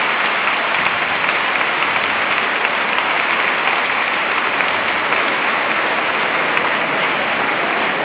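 Crowd applauding steadily, a dense unbroken clapping.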